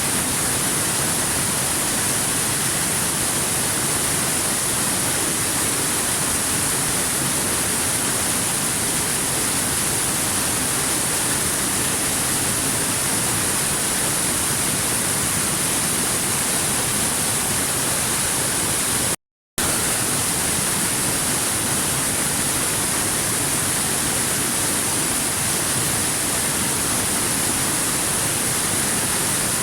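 Steady rushing of a waterfall, an even hiss with no changes, that cuts out to silence for a split second about two-thirds of the way through.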